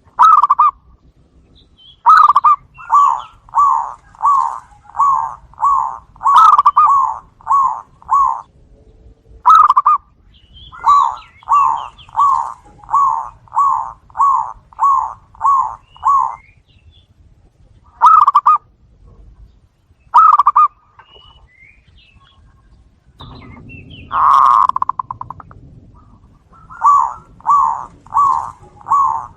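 Zebra doves (perkutut) cooing: runs of quick, evenly spaced coos, about two a second, in phrases of some eight notes, with pauses and single coos between the phrases.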